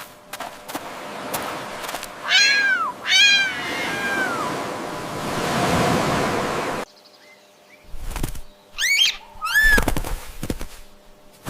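Domestic cat meowing: two drawn-out meows a few seconds in, then, after a sudden change of background, two shorter meows near the end.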